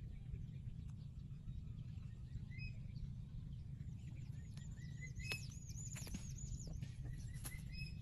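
Birds chirping in a quick run of high, arching notes from about halfway through, with a few lower chirps and some sharp clicks, over a steady low rumble of wind on the microphone.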